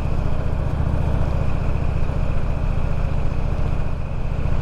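Motorcycle engine running steadily under way. Its low, even drone is the loudest sound, with a steady haze of road noise above it.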